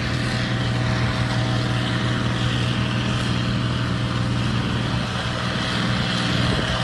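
Ford TW-15 tractor's six-cylinder diesel engine running at a steady speed, an even low hum.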